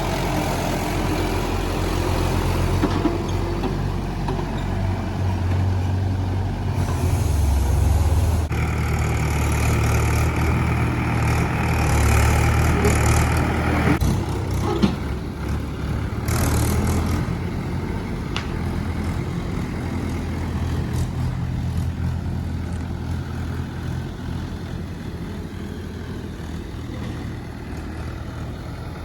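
JCB 3DX backhoe loader's diesel engine running and working, rising in load for several seconds in the middle, with a higher whine joining in then. A single sharp click comes about halfway through, and the engine sound eases off gradually toward the end.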